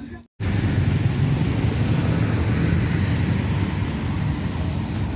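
Loud, steady low rumbling noise that starts after a brief dropout about a third of a second in.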